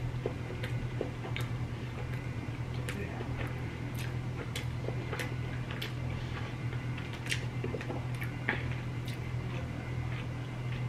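Close-miked chewing of a sauced boneless chicken tender: irregular wet smacks and small crunchy clicks of the mouth, over a steady low hum.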